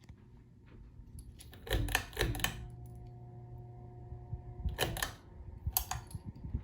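Ceiling fan pull-chain switch clicking several times in quick succession, then a steady hum for about two seconds, ended by more clicks, with two further clicks near the end.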